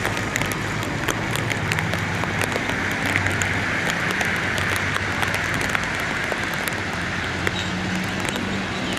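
Heavy rain falling steadily on pavement, a continuous hiss with many sharp drop ticks throughout. A low steady hum runs underneath.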